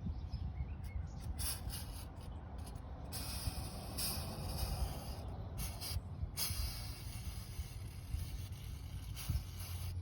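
Soft, irregular rubbing and handling noise over a low rumble, as white lithium grease is worked around a new rubber rear main seal by hand.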